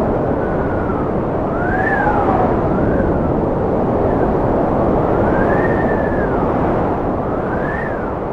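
Strong cold wind blowing in a steady rush, with a thin whistle that rises and falls every second or two as it howls.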